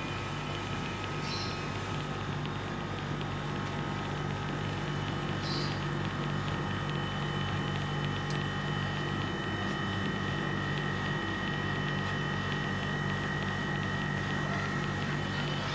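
Steady machine hum with a fast low pulsing throb and a few thin, steady whines above it, running unchanged.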